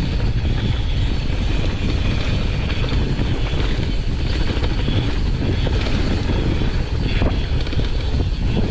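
Wind rumbling steadily on the microphone, with the rolling noise and rattle of a mountain bike going down a dirt trail.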